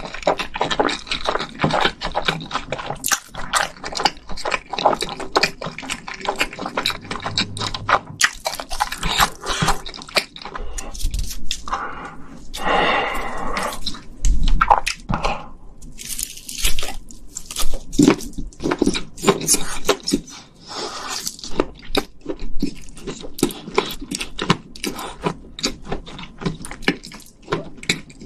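A person chewing spicy fire noodles close to the microphones: a dense, uneven run of quick mouth clicks and smacks.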